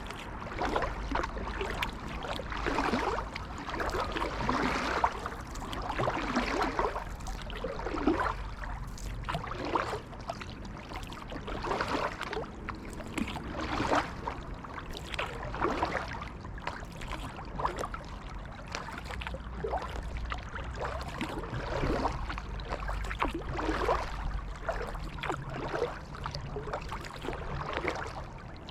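Kayak paddle strokes in creek water: a splashing swish about every second or two as the blades dip and pull, with water trickling off them.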